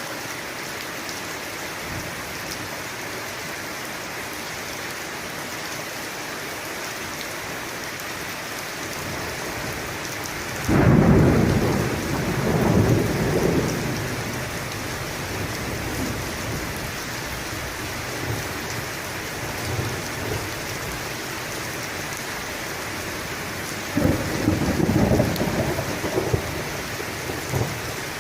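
Steady heavy rain with two rolls of thunder: a loud crack that rumbles on for a few seconds, starting suddenly about 11 seconds in, and a second, somewhat weaker rumble near the end.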